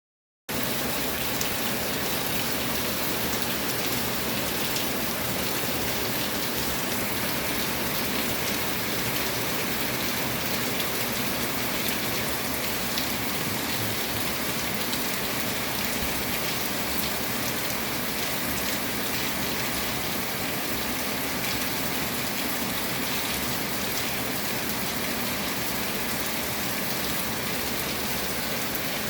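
Steady rain falling: a dense, even hiss with scattered drop hits, cutting in abruptly about half a second in.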